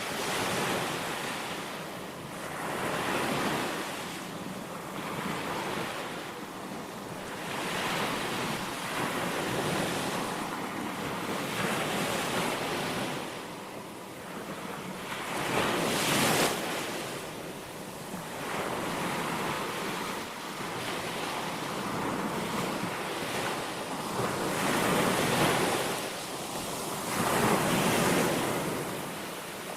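Sea waves breaking on a beach, an unbroken wash of surf that swells and ebbs every few seconds, loudest about halfway through, with wind on the microphone.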